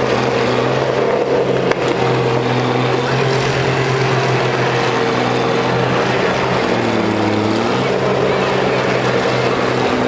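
Diesel engines of several combine harvesters running together in a demolition derby, their steady drone overlapping at slightly different pitches; one engine's pitch drops and comes back up about seven seconds in. A single short knock sounds just under two seconds in.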